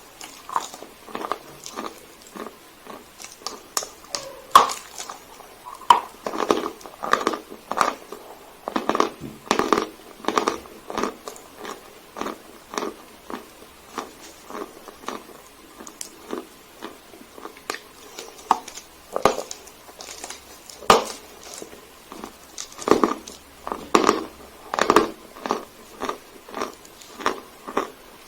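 Dry Sevryukovo chalk being bitten and chewed close to the microphone: a run of sharp, dry crunches at an uneven pace, often several in quick succession.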